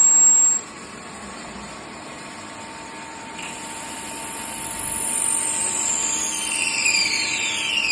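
A high-speed machine motor whining over steady machine-shop noise. The whine cuts off sharply about half a second in. A few seconds later a high whine starts again and then falls steadily in pitch, as a spindle does when it winds down.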